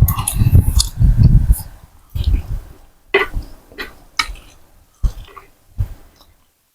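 Eating noises close to the microphone: chewing and slurping noodle soup, with low rumbling bursts in the first second or two, then scattered short clicks that thin out toward the end.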